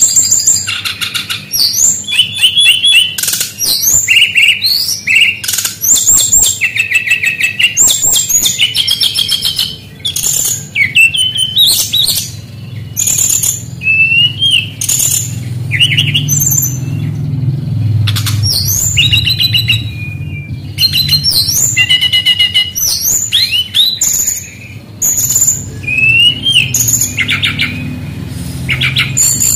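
Brown-chested jungle flycatcher (sikatan rimba dada coklat) singing a fast, varied song of quick chirps, rapid trills and rising and falling whistles with only brief pauses, strung together from imitations of other birds' calls.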